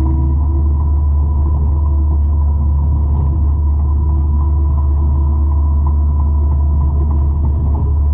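Forestry mulcher rated at 200 horsepower running under load: a loud, steady engine drone, deepest in the low end, with no let-up.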